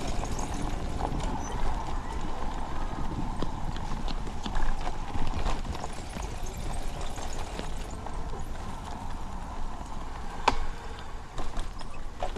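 Bicycle in motion: steady wind and tyre noise with irregular clicks and rattles from the bike as it goes over the path.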